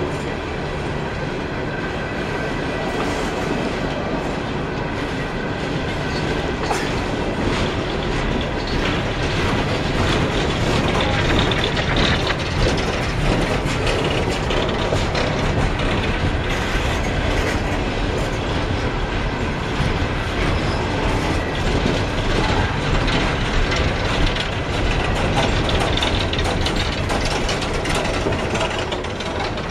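Long CSX coal train of empty hopper cars rolling steadily past, the wheels clicking over the rail joints above a continuous rumble.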